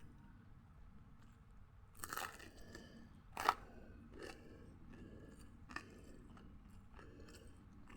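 A person biting and chewing crunchy food close to the microphone. The crunches begin about two seconds in, one loud crunch comes in the middle, and lighter crunches follow.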